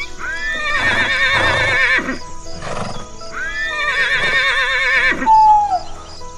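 Horse whinnying twice, each a long neigh with a wavering pitch, over soft background music. Near the end a short, louder call falls in pitch.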